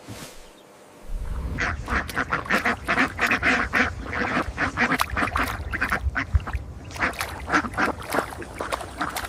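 A flock of poultry quacking and calling, many short calls overlapping in quick succession, starting about a second in.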